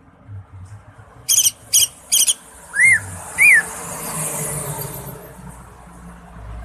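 Green leafbird (cucak ijo) singing: three quick bursts of rapid, high chattering trills, then two arched whistled notes that rise and fall, about half a second apart.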